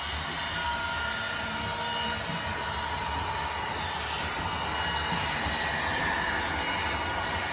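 Train approaching, its running noise growing steadily louder, with thin high squealing tones from the wheels on the rails above the low rumble.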